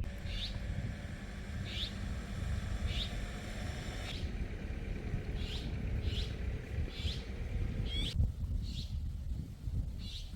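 A bird calling over and over, short high chirps about once a second, over a steady low rumble.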